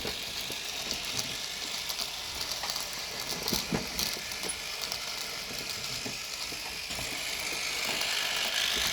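N gauge model train running on the track: a steady faint hiss of the small motor and wheels, with scattered light clicks over the rail.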